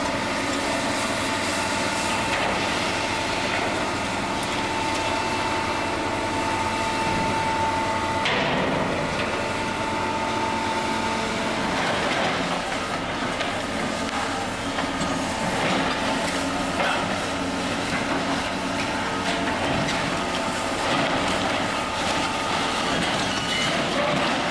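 Heavy demolition machinery working on a building: steady machine noise with metal clanking and scraping, and a thin steady squeal for the first eight seconds or so.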